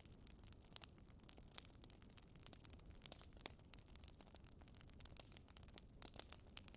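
Wood fire crackling in a fireplace: irregular sharp pops and snaps, a few louder ones, over a faint low rumble of burning.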